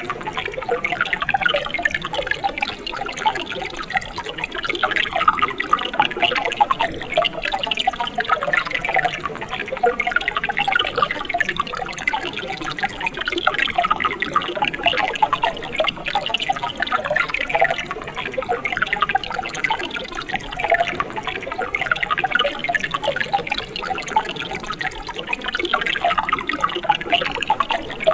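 Mountain stream water running and babbling steadily, a dense mix of small splashes and gurgles with no pauses.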